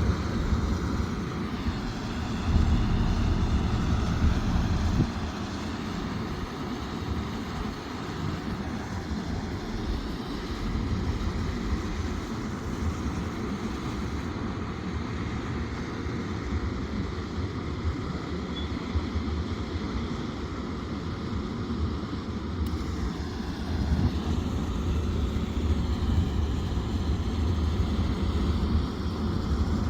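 Sumitomo SH370LHD-6 excavator's diesel engine running under working load, with faint higher tones that slowly shift in pitch. It grows louder for a few seconds near the start and again near the end.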